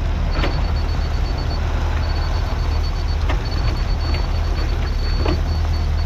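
Diesel engine of a compact skid steer or tractor running steadily, with a high thin whine cutting in and out over it and three sharp clanks.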